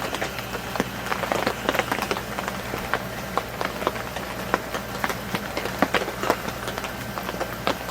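Heavy rain falling: many sharp, irregular drop hits over a steady hiss, with a steady low hum underneath.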